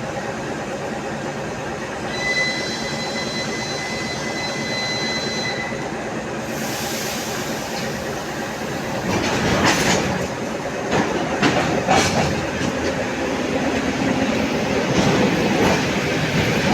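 A train moving through a station. First a steady high squeal of its wheels for a few seconds, then its noise grows louder, with wheels clacking over rail joints.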